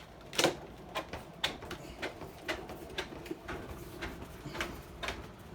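A run of short clicks and taps, about two a second and uneven, the strongest about half a second in, as the clip-in trim piece of a Norcold RV refrigerator door is pressed back on.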